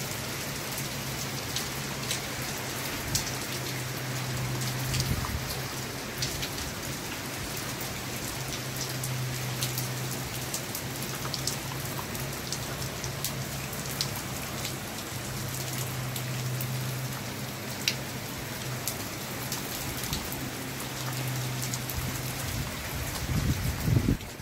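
Heavy rain falling steadily, with sharp individual drops clicking on a nearby surface. A brief, louder low rumble comes near the end.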